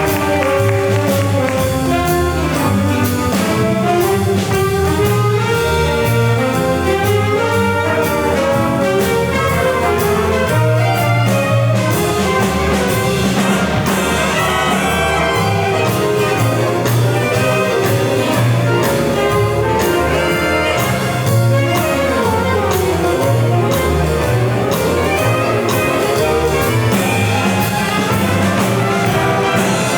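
A student band playing a piece, with trumpets and trombones to the fore over a steady bass line.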